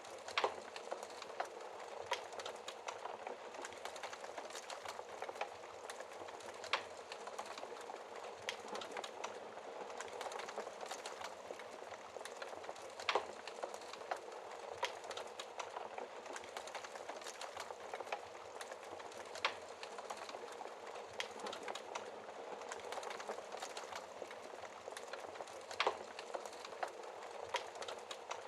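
Wood fire burning behind a glass fireplace shield: a steady hiss of flames with constant small crackles and a handful of sharper pops from the burning wood.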